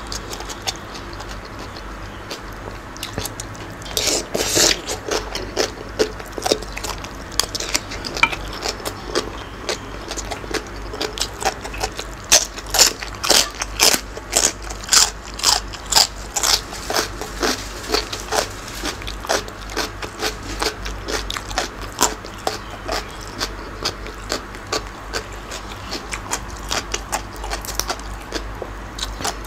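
Chewing: a rapid train of wet crunching and mouth clicks, about two a second, from a man eating green papaya salad with squid. Loudest in the middle, easing off towards the end.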